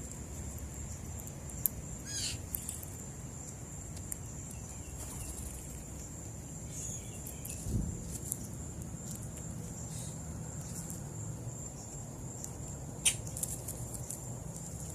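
Outdoor morning ambience: a steady high-pitched insect trill, with a short bird call about two seconds in and scattered small clicks and taps. There is a low thump about halfway through.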